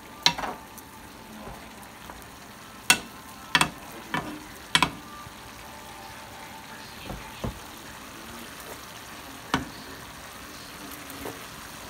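Chicken and vegetable stir-fry sizzling steadily in a frying pan as it is stirred, with a metal spoon knocking sharply against the pan a few times, most of them in the first five seconds and once more near the end.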